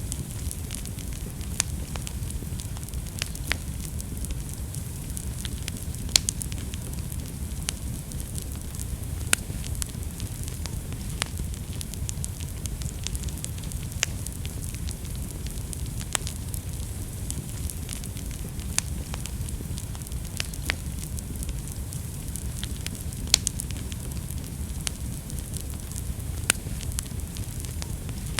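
Wood fire burning in a fireplace: a steady low rumble of flames with irregular crackles and sharp pops, a few of them louder than the rest.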